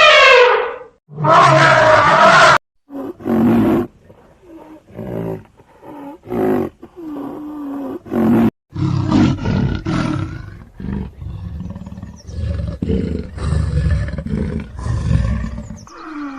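A string of short animal calls cut one after another, with a loud falling horn-like call at the start, ending with a long stretch of deep roaring in uneven pulses, typical of a big cat such as a lion.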